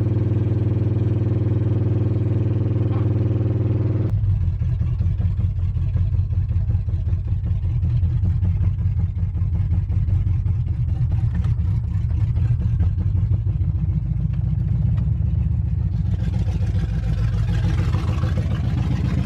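Pickup truck engine running at a steady raised speed, then about four seconds in dropping to a rough, uneven idle; near the end a hiss joins in. The engine is running badly, with a sound the owner asks might be knocking.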